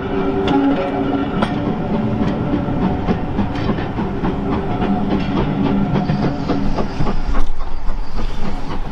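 GWR small Prairie 2-6-2 tank locomotive 5541 departing with four coaches, its wheels clicking over the rail joints over a steady ringing tone. It is a hard start, the engine thought to be slipping a little.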